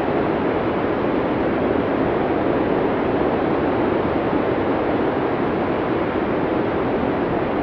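Blizzard wind sound effect: storm wind blowing steadily as one dense, even rush, deepest in the low middle, with no whistling tone, gusts or lulls.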